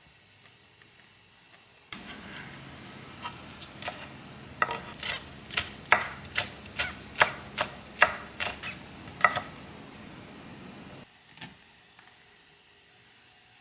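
Kitchen knife chopping on a cutting board: about a dozen sharp, evenly paced chops, roughly two a second.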